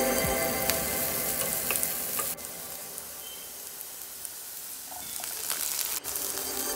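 Diced bell peppers and onion sizzling in hot oil in a nonstick frying pan, a steady frying hiss with a few small clicks. The sizzle drops quieter about two seconds in and comes back up near the end.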